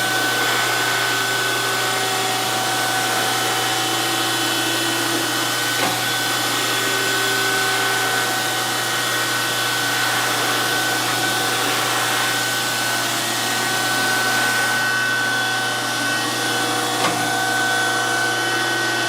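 DoAll surface grinder running: a steady machine whine of several tones over a hum and a hiss, with a faint click twice.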